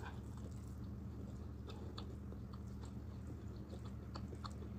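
Close-miked eating sounds from someone eating rice and stew by hand: scattered small wet clicks and smacks of chewing, and fingers working through the rice. A steady low hum runs underneath.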